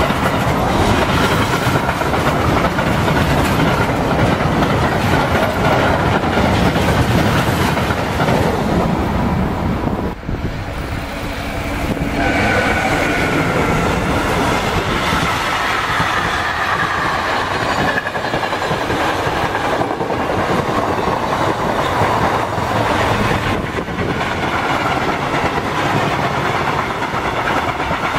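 A long freight train of covered wagons rolling steadily past at close range. About ten seconds in it gives way to a second train: a locomotive hauling a coach and flatcars, with a faint high whine that slides slowly down in pitch under the running noise.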